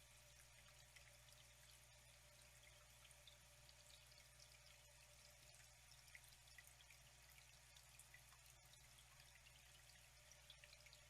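Faint trickling water with many small drips and splashes, over a low steady hum.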